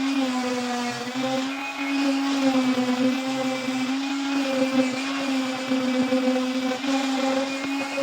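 Electric grinder motor running steadily at high speed, grinding rust off an old saw blade. The hum holds one steady pitch with a gritty hiss over it, wavering slightly as the tool is worked against the steel.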